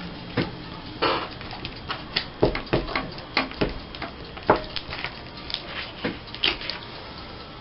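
Light, irregular taps and clicks, about fifteen over several seconds, as paper craft pieces and small embellishments are handled and set down on a work table.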